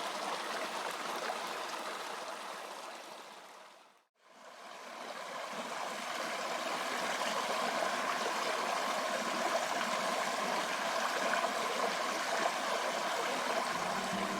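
Creek water running steadily. It fades out to silence about four seconds in, then fades back up.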